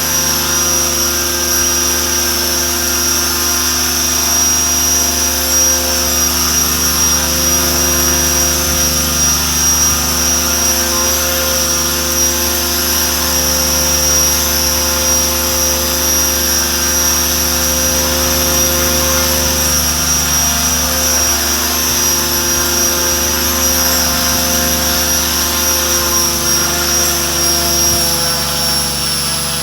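Electric RC helicopter, a Mikado Logo 600, running at steady rotor speed: a high motor whine over the steady buzz of the rotor blades and gears. Right at the end the pitch starts to fall as it begins to spool down.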